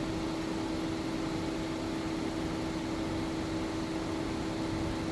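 A steady machine hum with one constant tone, unchanging throughout.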